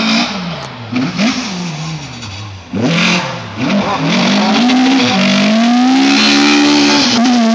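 Drift car's engine revving hard as it approaches, its pitch swooping up and down with throttle blips and gear changes. Just under three seconds in the loudness jumps sharply, and the engine then holds steady at high revs.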